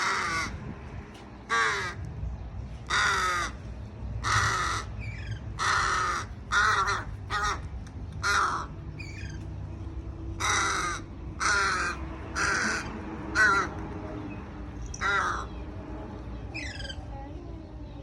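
A crow cawing again and again: about a dozen harsh caws with short pauses between them, and a few thin gliding whistled notes among them.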